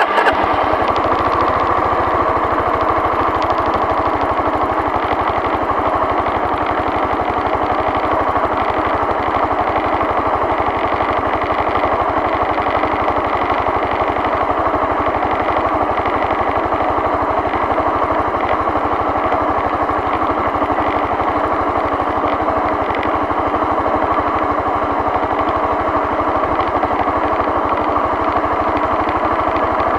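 A vehicle engine running steadily, with a dense low pulsing and an even mid-range drone of engine and road noise that hardly varies in level.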